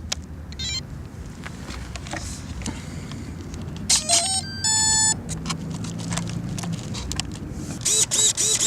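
Handling clicks and rustling, then about four seconds in a short run of rising electronic tones and a beep from the electric RC plane's electronics powering up, like a brushless speed controller's arming tones, followed by a low steady hum.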